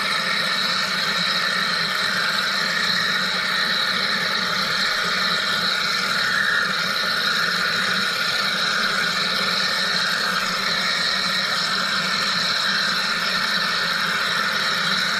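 Wire EDM (wire electrical discharge machining) machine running: a steady, unbroken machine hum and hiss.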